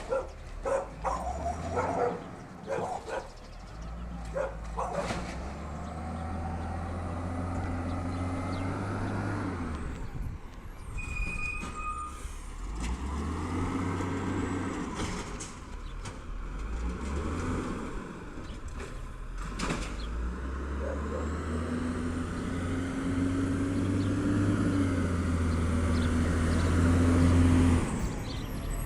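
Peterbilt 320 side-loader garbage truck's diesel engine revving up and holding at raised speed three times, the longest and loudest run near the end, with short hisses of air between. There are a few sharp clicks and knocks in the first seconds.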